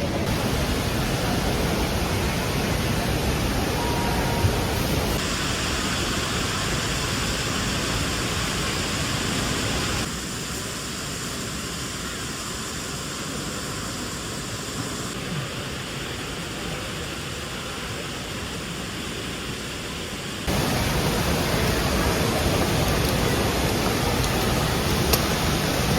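Steady rushing background noise. It changes suddenly in loudness and tone about every five seconds.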